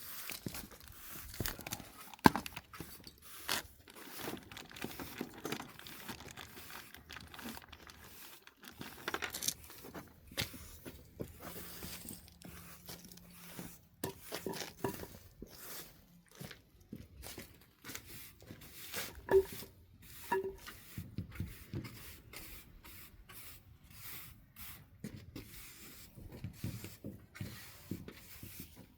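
Irregular scraping, rubbing and knocking of objects being handled, with a sharp knock about two seconds in.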